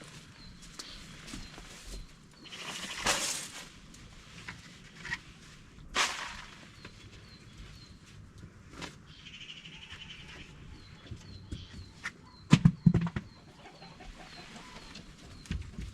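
Poultry chirping faintly and repeatedly, with rustling and a short burst of loud knocks late on.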